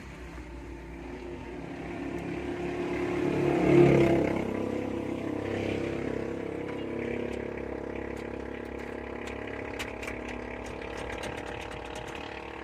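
Mitsubishi L300's engine running, revving up to a peak about four seconds in, then settling into a steady idle.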